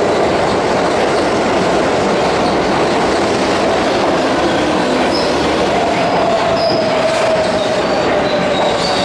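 Keihan Main Line electric train running along the platform tracks in the underground station: a steady loud rumble of wheels on rail. About six seconds in, a thin wheel squeal comes in, joined by brief high squeaks.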